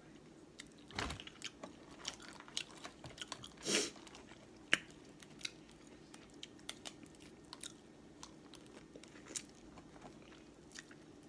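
Close-miked mouth sounds of eating seafood: chewing and biting with many small scattered clicks, and a couple of louder crunches about a second in and near four seconds.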